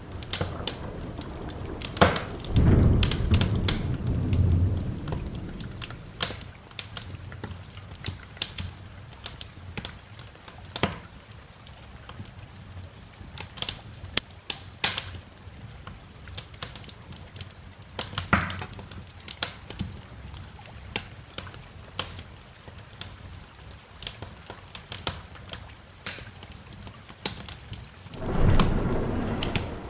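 Wood fire crackling with irregular sharp pops over a light steady rain hiss. A low rumble of thunder swells about two and a half seconds in and lasts a few seconds, and another comes near the end.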